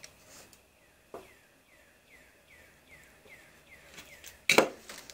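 A bird calling a quick series of short falling notes, about three a second. About a second in there is a click, and near the end a loud crinkle of a plastic zip bag being handled.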